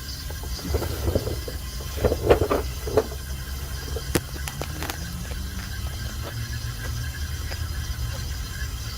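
A steady low mechanical hum with a cluster of knocks and clatter about two to five seconds in, the sharpest a click near the four-second mark.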